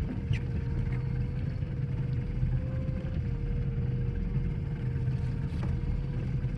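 Outboard motor of a small fishing boat running steadily at slow trolling speed: a low rumble with a steady whine.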